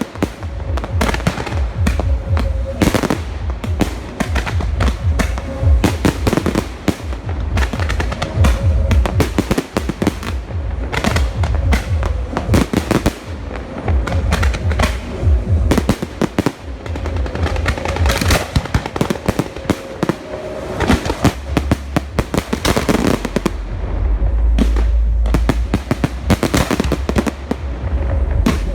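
Large professional fireworks display: shells bursting in rapid, overlapping succession with crackling, and deep booms underneath.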